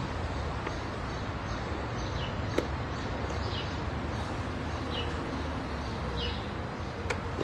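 Small birds chirping in short, falling calls about once a second over a steady low background rumble, with a single sharp click about two and a half seconds in.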